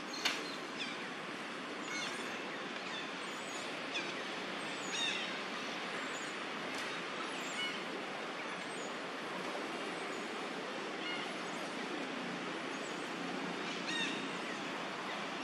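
Outdoor ambience: a steady hiss of background noise with short bird chirps scattered through it every second or two.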